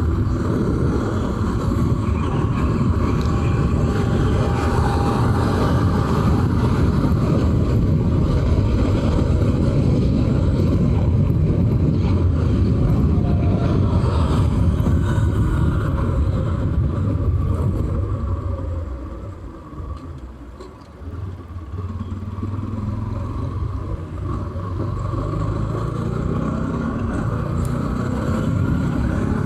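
Bajaj Pulsar 200 NS single-cylinder motorcycle riding on the road, its engine and road noise running steadily. The sound drops away briefly about two-thirds of the way through, then builds back up.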